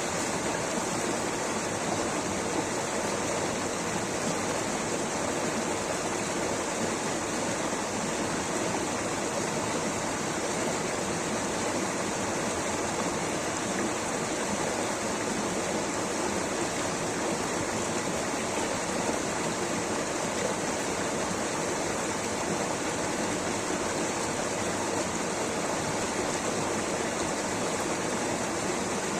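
Water rushing steadily over rocks in a stream or small waterfall, a continuous even roar with no breaks.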